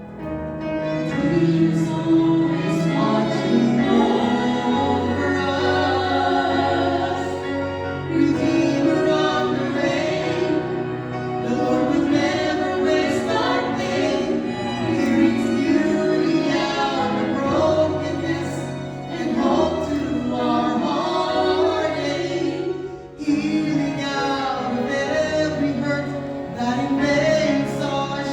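Sung music: a choir of voices singing a gospel-style song over a steady bass accompaniment, dropping briefly about 23 seconds in before carrying on.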